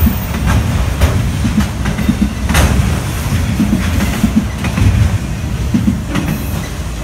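Autorack freight cars rolling past at speed: a loud, dense rumble of steel wheels on rail with clickety-clack over the joints and a sharp metal clank about two and a half seconds in. The rumble eases near the end as the last cars go by.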